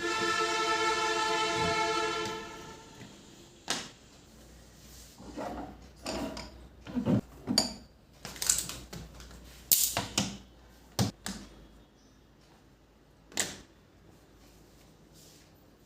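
A loud, steady whistle-like tone rich in overtones sounds for about two and a half seconds at the start, then fades out. Scattered short knocks and clicks follow.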